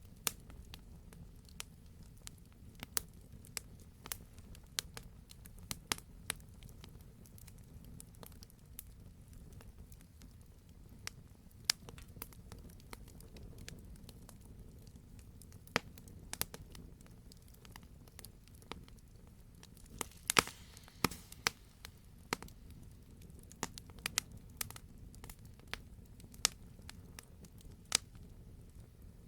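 Wood fire crackling in a fireplace: irregular sharp pops and snaps over a low steady rumble, with a quick cluster of louder pops about two-thirds of the way through.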